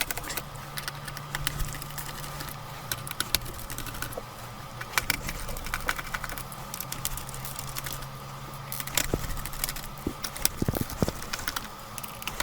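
Scattered small clicks and taps of hand tools and plastic laptop parts being handled while a laptop is taken apart, over a low steady hum that stops about ten seconds in.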